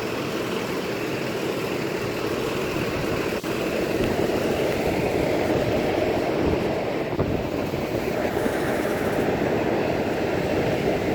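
School bus running steadily, a continuous vehicle noise with no breaks.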